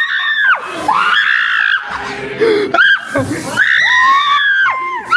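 People screaming in fright: a string of about five high-pitched, drawn-out screams, one after another, each falling off in pitch at its end.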